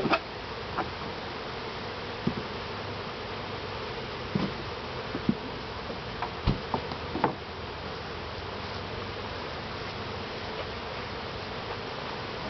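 A swarm of honeybees buzzing steadily around an open top bar hive, with a few scattered light clicks and knocks.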